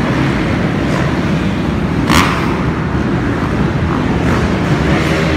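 Dirt bike engines running in a steady, rough rumble, with a brief sharp sound about two seconds in.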